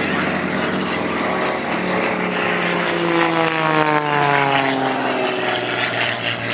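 Propeller airplane flying past, its engine note dropping steadily in pitch as it goes by, from about two seconds in.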